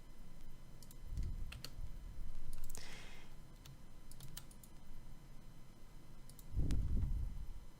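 Scattered clicks of a computer keyboard and mouse, with a brief hiss about three seconds in and a low thump near the end.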